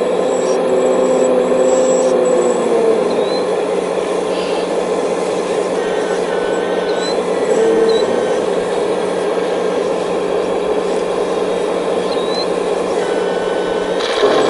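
Hydraulic excavator running steadily as it digs, its hydraulic pump whining and changing pitch now and then as the controls are worked.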